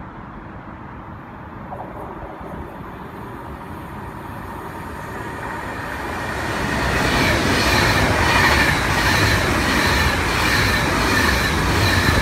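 Class 390 Pendolino electric express passing through the station at speed without stopping. The rushing noise builds steadily and is loud from about seven seconds in, with a regular clatter of wheels over the rail joints.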